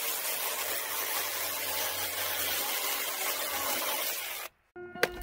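A steady rushing, hiss-like noise with a faint low hum under it, which cuts off abruptly about four and a half seconds in; guitar music begins right after.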